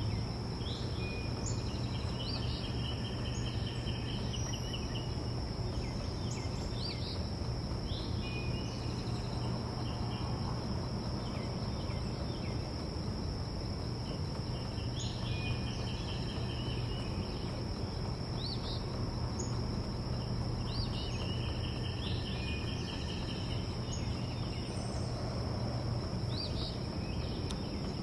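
Backyard ambience: small songbirds give short chirps and trills every few seconds over a continuous high insect drone and a steady low rumble.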